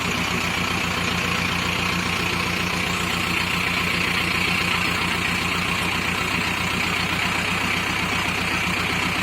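A tractor's diesel engine runs steadily at a constant speed, with even, rapid firing pulses.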